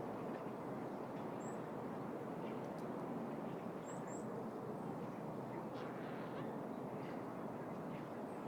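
City park ambience: a steady, even hum of the surrounding city, with a few short, high bird chirps scattered through it.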